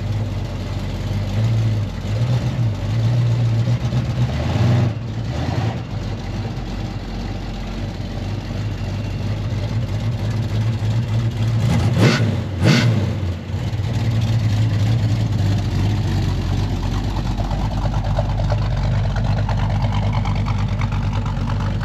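A car engine running at a steady idle, revved up and back down twice in quick succession about twelve seconds in.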